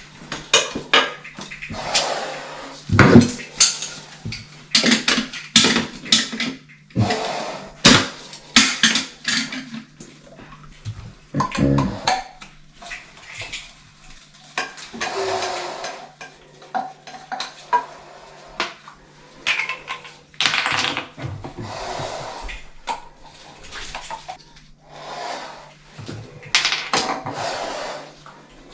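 Irregular clattering and knocking of hard objects being handled and moved, with a steady low hum underneath.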